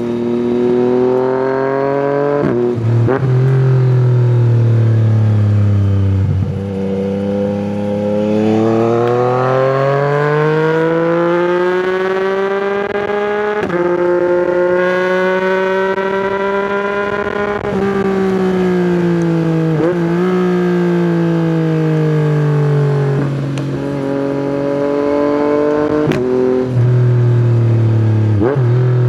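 Yamaha MT-09's three-cylinder engine through an Akrapovic exhaust, ridden hard: revs sink, then climb steadily for about seven seconds, hold, and fall again with several quick blips as it slows down through the gears.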